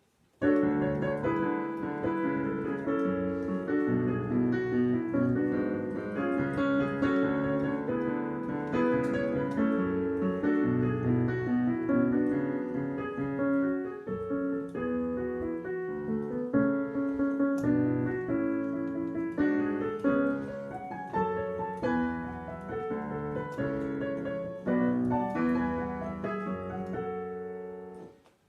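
Piano or keyboard music: a steady flow of struck notes and chords, starting about half a second in and dropping away just before the end.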